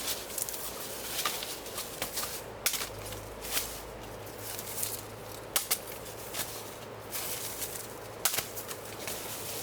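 Irregular sharp snaps and crackles with rustling in forest undergrowth, about eight of them spread unevenly.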